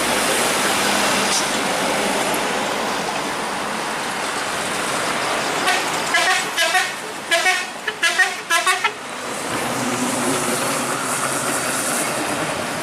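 Vehicle horn sounding a rapid string of short, pitched toots for about three seconds, starting roughly halfway through, over steady traffic noise from passing trucks.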